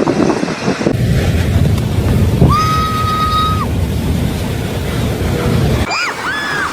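Fierce tornado wind buffeting the microphone in a loud, steady rush. About halfway through there is a steady high tone lasting about a second, and near the end a run of short rising-and-falling whistle-like calls.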